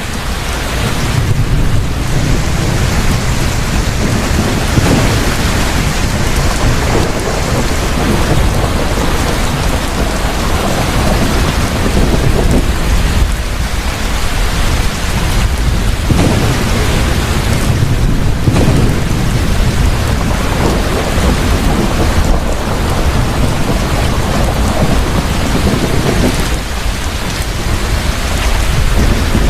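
Thunderstorm: heavy, steady rain with deep rolling thunder rumbling underneath, fading in at the start.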